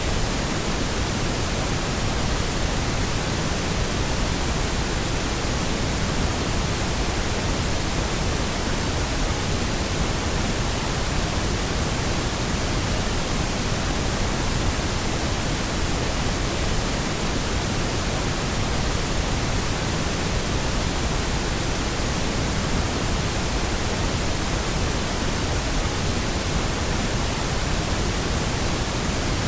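Pink noise: a steady, even hiss across all pitches that never changes.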